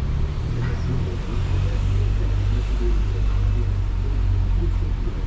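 Steady low rumble of a moving vehicle, a little stronger from about a second in.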